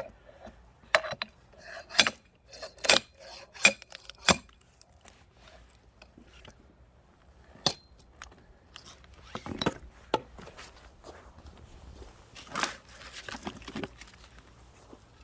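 Firewood being split and handled: sharp wooden knocks and clatter, a quick run of five about a second apart early in the stretch, then a few scattered knocks.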